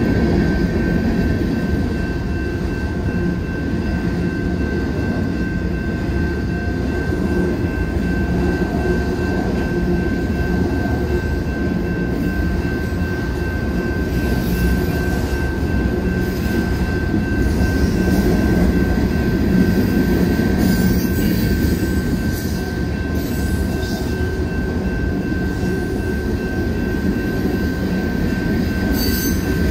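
Freight train cars rolling past at speed, with a steady deep rumble and a thin steady high tone over it. A few brief high-pitched sounds come about halfway through and again near the end.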